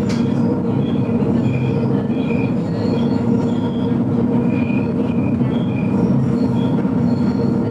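GoldenPass Belle Époque train running on the rails: a steady rumble and hum with short, irregular high-pitched squeals from the wheels, and one sharp click right at the start.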